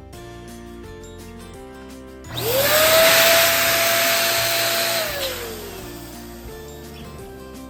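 Electric balloon pump blowing air into a balloon: a loud rush of air with a motor whine that rises as it starts, holds steady for about three seconds, then sinks away as the pump winds down. Background music plays throughout.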